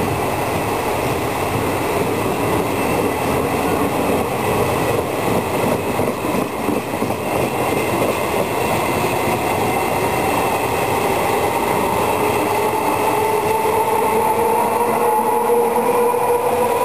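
Passenger train coaches passing close by, their wheels rumbling steadily on the rails. From about halfway through, a rising electric whine grows louder as the electric locomotive at the rear of the train draws level.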